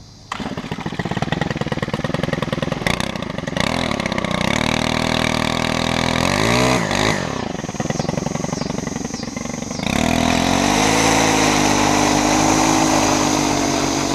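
Lawn mower engine starting suddenly and running, its pitch dipping and rising about halfway through, then settling into a steadier, louder run about ten seconds in.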